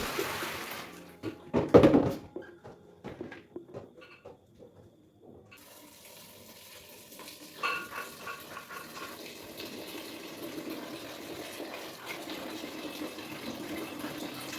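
A few sharp clattering knocks about two seconds in, then a tap running water steadily into a sink from about halfway on.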